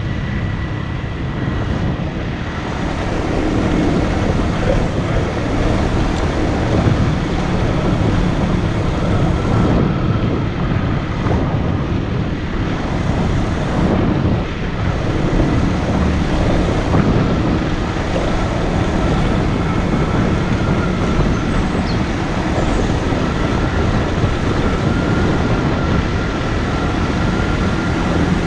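A motorcycle running steadily while being ridden, with wind noise on the microphone.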